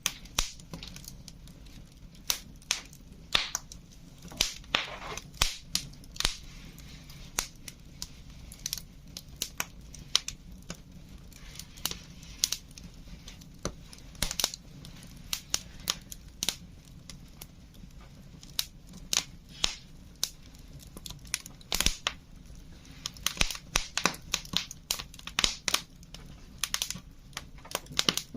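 Wood fire crackling, with irregular sharp pops several a second and a couple of short hissing spells.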